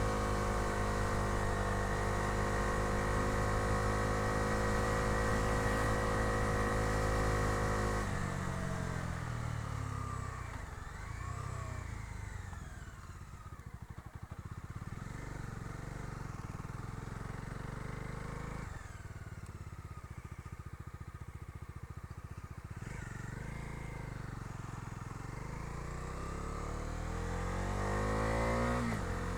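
Bajaj Dominar 250's single-cylinder engine heard from the pillion seat while riding. It holds steady revs, eases off about eight seconds in and runs quieter at low revs, then revs up again near the end.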